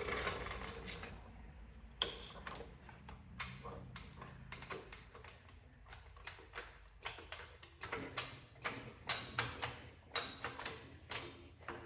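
Scattered light clicks and knocks of handling noise, irregular and several a second, with a louder knock about two seconds in.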